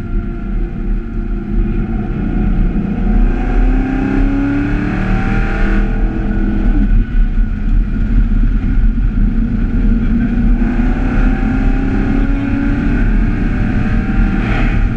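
Chevrolet Camaro ZL1's supercharged 6.2-litre V8 heard from inside the cabin, pulling under heavy throttle on track: its pitch climbs for several seconds, drops sharply about seven seconds in, then climbs again. Wind and tyre noise run underneath.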